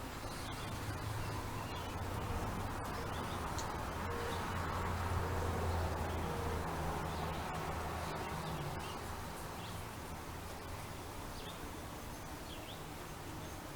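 Background traffic: a low engine rumble that swells and fades over several seconds as a vehicle goes by, with a few faint chirps from house sparrows at a feeder.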